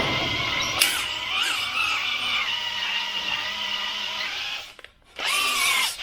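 Electric drill spinning a cylinder hone inside an engine block's cylinder bore, a steady whine that wavers in pitch as the speed changes. It stops briefly near the end and starts up again.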